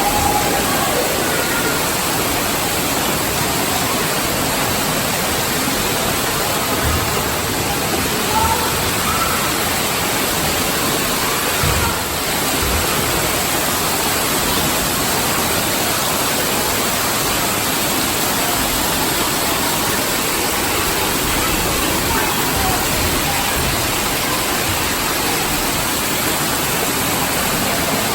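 Steady rushing, splashing water, an even wash of noise that holds at the same level throughout, with faint children's voices now and then.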